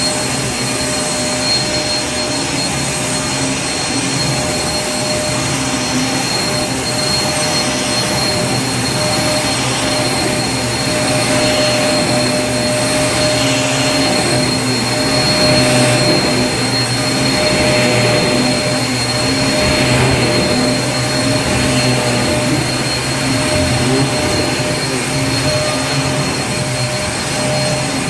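Vacuum cleaner running steadily: a continuous rushing hum with a fixed, steady whine over it.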